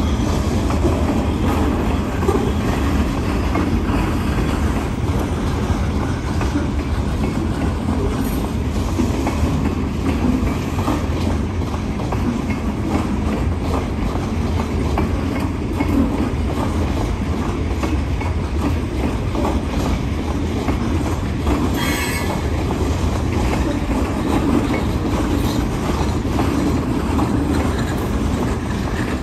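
Loaded freight cars of a train rolling past, a steady rumble of steel wheels on the rails. A brief high-pitched wheel screech sounds about three-quarters of the way through.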